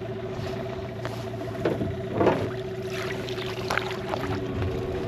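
Small boat motor running steadily with an even whine, and a few short knocks or splashes over it.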